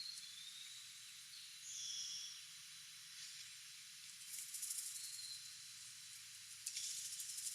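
Faint outdoor ambience: a steady high hiss with a few short, high wild-bird call notes, and two short clusters of rapid high ticks, one in the middle and one near the end.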